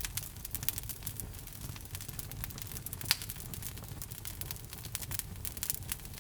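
Wood logs burning in a fireplace, crackling with frequent small snaps over a low steady rumble of flame, and one louder pop about three seconds in.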